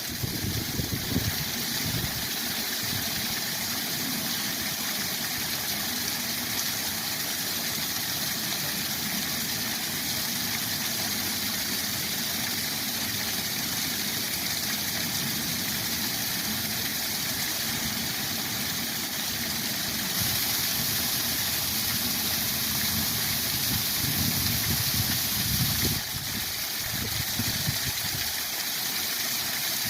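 Waterfall rushing: a steady hiss of falling water over an uneven low rumble, a little louder for several seconds past the middle.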